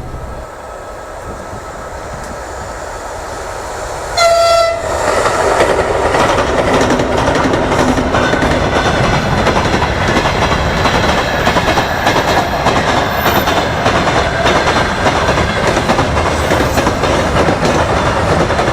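A short, loud horn blast about four seconds in, then the loud, steady rumble and rapid clatter of a passing train's wagons.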